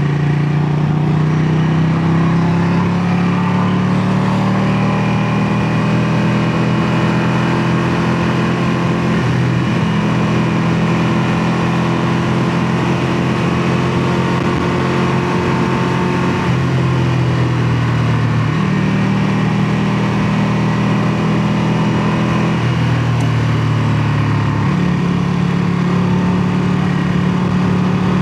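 Ducati Panigale 959's Superquadro L-twin engine running under way through its exhaust, with a steady note whose pitch steps up and down several times as the revs change.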